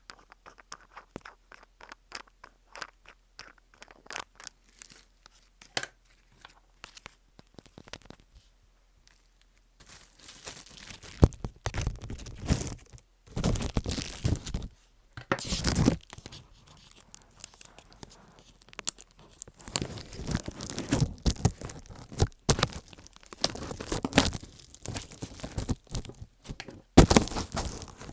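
Fingers scratching, tapping and rubbing directly on an earbud used as the microphone, giving close crackly, rasping noises. The first stretch is light scattered clicks, then, about ten seconds in, it turns into louder, denser scratching in bursts.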